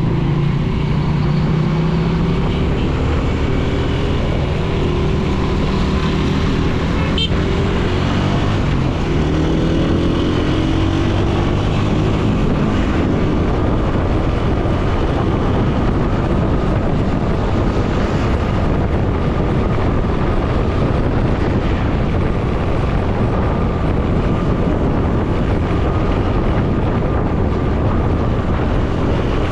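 Motorcycle engine running under way, its pitch rising and falling over the first several seconds, then mostly steady wind and road rush, with a short click about seven seconds in.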